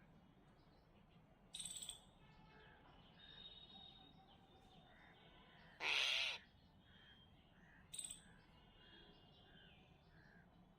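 A crow giving one loud, harsh caw about halfway through, with two shorter harsh bird calls about two seconds before and after it. Faint bird notes repeat steadily in the background.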